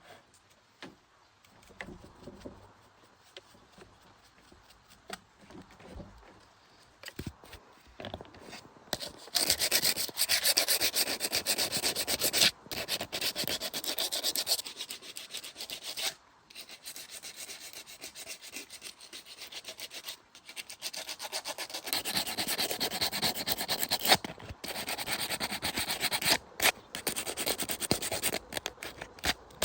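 A few faint clicks and taps, then from about nine seconds in, loud abrasive rubbing strokes on a part being cleaned up by hand. The strokes come in runs of several seconds, with short breaks between them.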